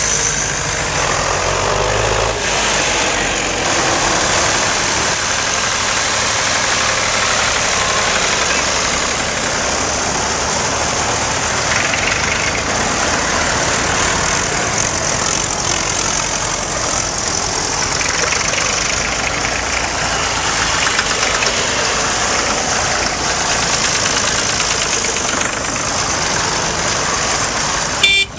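Tractor engines running steadily as a procession of tractors goes by, a dense continuous noise, with a brief break near the end.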